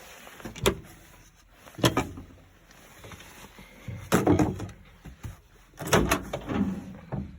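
Hatches and doors aboard a boat being opened and shut: four bursts of knocking and clunking, a second or two apart.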